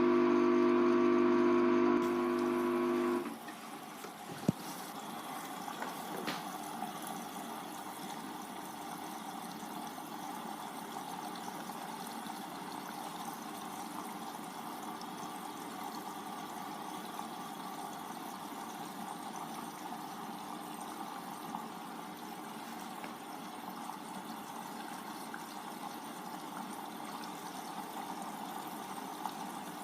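Hoover Vision Tech washing machine's drain pump humming steadily, cutting off abruptly about three seconds in. A sharp click follows, then a steady rush of water in the machine.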